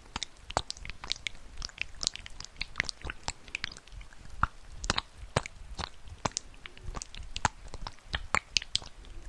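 Close-miked ASMR trigger sounds: a dense, irregular run of sharp clicks and crackles, several a second.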